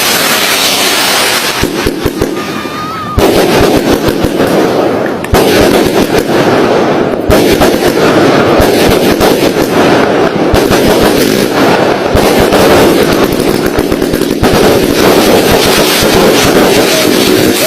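A dense, rapid barrage of fireworks and firecracker bangs, crackling almost continuously like machine-gun fire. It grows louder and thicker about three seconds in.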